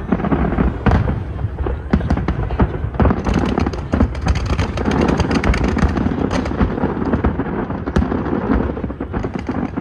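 Aerial fireworks display going off. Repeated booming shell bursts, with a dense crackling of many small bursts starting about three seconds in and easing off near the end.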